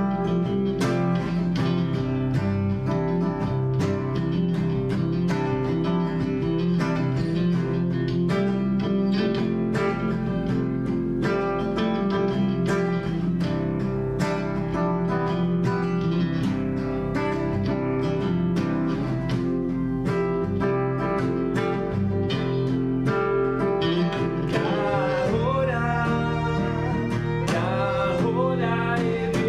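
Acoustic rock band playing an instrumental break, with steadily strummed acoustic guitars. Over the last few seconds a lead melody bends up and down in pitch.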